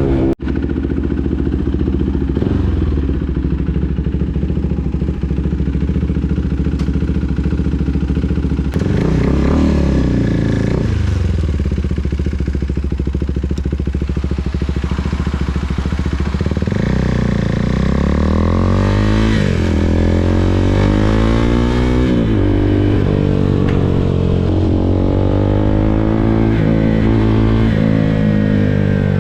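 KTM RC 390's single-cylinder engine running under way, heard from the rider's position. It holds a fairly steady note for the first half, then revs up and drops back several times as the bike accelerates.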